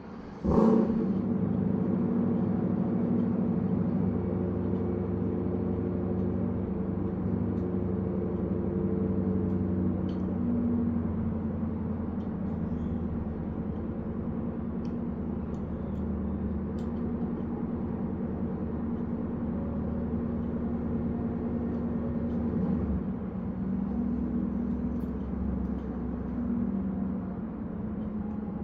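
A motor starts abruptly about half a second in and runs with a steady hum.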